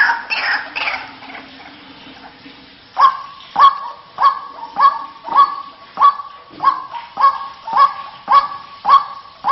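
White-breasted waterhen calling: a fading run of calls in the first second, then from about three seconds a steady series of sharp repeated notes, almost two a second.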